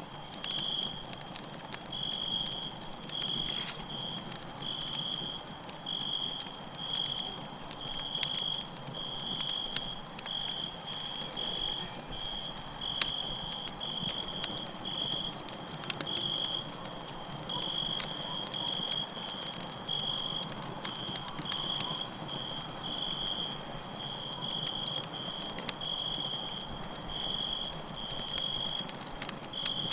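Campfire crackling with sharp irregular snaps and pops, over crickets chirping in high, evenly repeated pulses a little more than once a second.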